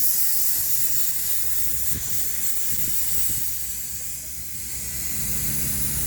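R-11 flushing fluid blown under pressure through a split air conditioner's copper lines, a steady loud hiss that eases a little about four seconds in and then builds again.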